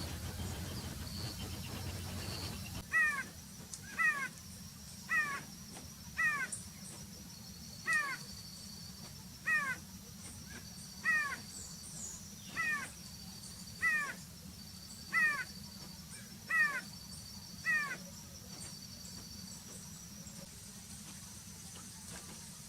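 A forest bird calling over and over, about a dozen short calls, each sliding down in pitch, roughly one a second; they stop a few seconds before the end. A faint steady high tone and short high pulses run behind.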